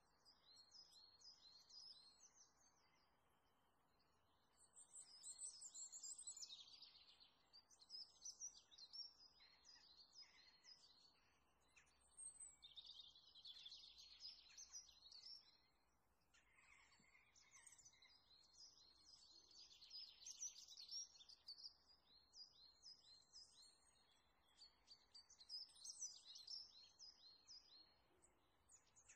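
Faint songbirds chirping and twittering in repeated high phrases, coming in bouts with short lulls about 4 seconds in, around 16 seconds and near the end.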